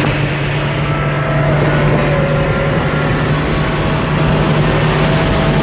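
Truck engine running hard and steady at high road speed, its drone holding one pitch under loud road and wind rush.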